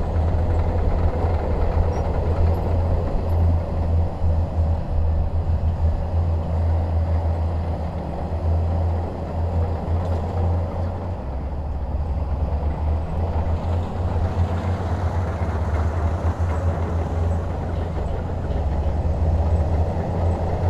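Bulldozer's diesel engine running steadily under load, a deep continuous rumble that dips and shifts slightly in pitch about halfway through.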